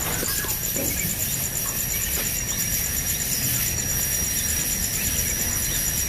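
Insects chirring outdoors: a fast, even, high-pitched pulsing that goes on without a break, over a steady low rumble of background noise.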